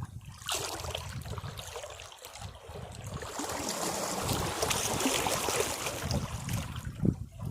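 Sea waves washing over rocks: a hiss of surf swells up about half a second in, is strongest mid-way and ebbs near the end, over a steady low rumble, with a sharper splash near the end.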